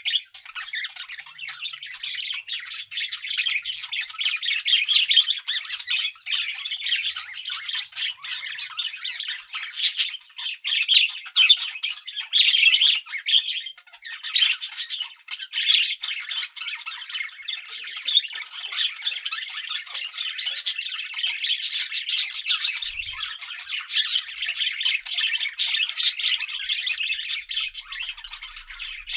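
Several budgerigars chattering continuously: a dense warbling twitter with sharp squawks and clicks scattered through it.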